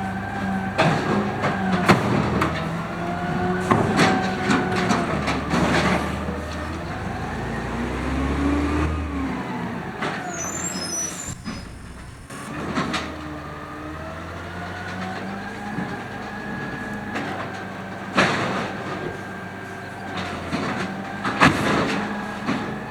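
Automated side-loader garbage truck working: its engine revs rise and fall as the hydraulics run, with sharp bangs of a recycling cart being slammed against the hopper, several early and a couple near the end. A brief high squeal comes about halfway through.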